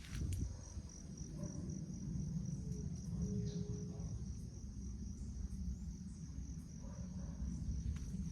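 An insect chirping steadily in a thin high pulse, about three chirps a second, over a steady low rumble.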